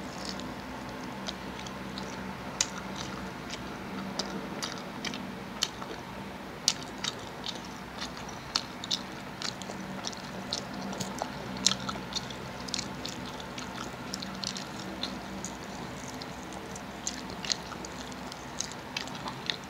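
Close-miked chewing and biting of crispy fried chicken, with many short crunchy clicks and wet mouth sounds scattered throughout.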